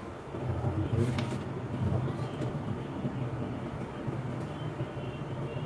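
Steady low hum, with a brief knock or clatter about a second in.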